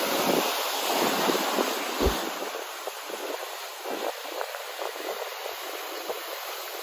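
Ocean surf breaking and washing ashore as a steady rushing noise, with wind on the microphone and a brief low thump about two seconds in.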